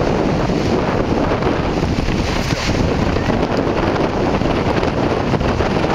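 Severe thunderstorm wind blowing hard across the microphone: loud, steady wind noise from gusts estimated at 60 to 75 mph.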